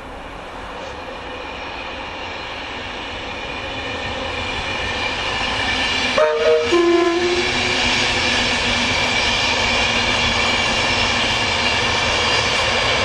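Passenger train approaching and running past on the main line, its rushing wheel and track noise growing steadily louder. About six seconds in, its horn gives a short two-tone blast, a higher note then a lower one.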